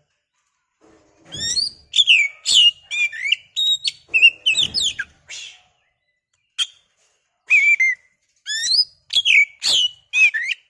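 Oriental magpie-robin (kacer) singing: quick runs of loud, varied whistled notes that slur up and down, broken by a short pause in the middle.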